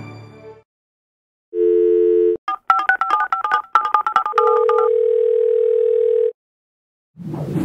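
Telephone dial tone for about a second, then a rapid run of touch-tone dialing beeps, then a steady tone that stops abruptly. Music fades out just before the dial tone.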